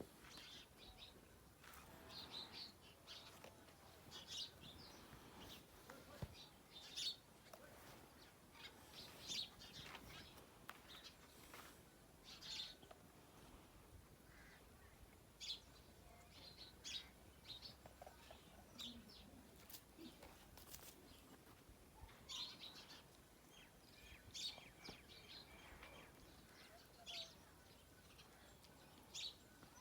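Parrot giving short, high chirps, scattered irregularly about every second or two, faint.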